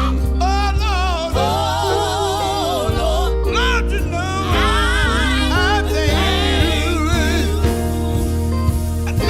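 Gospel group singing with strong vibrato, backed by a band with a steady bass line.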